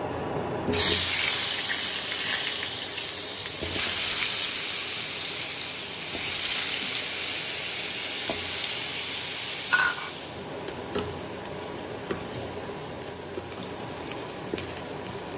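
Cubed potatoes coated in salt and turmeric frying in hot oil in a pan. A loud sizzle starts suddenly about a second in as they hit the oil and flares again twice as more pieces go in. It settles to a quieter steady sizzle after about ten seconds, with a few light clicks of a wooden spatula.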